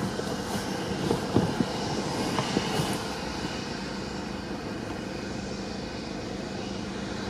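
Steady rushing background noise with a faint constant tone, and a few faint knocks in the first three seconds.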